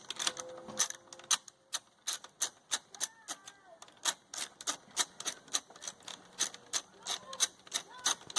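Ratchet wrench clicking in a fairly even series, about three or four sharp clicks a second, as the bolts holding an inverter generator's muffler are backed out.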